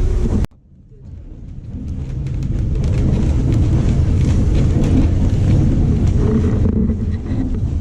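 Steady low rumble of a moving vehicle with wind on the microphone and faint scattered clicks. It cuts off sharply about half a second in, then fades back in over the next few seconds and holds steady.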